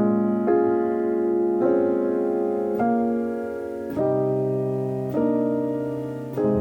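Background music: gentle solo piano playing slow chords, a new chord struck about every second.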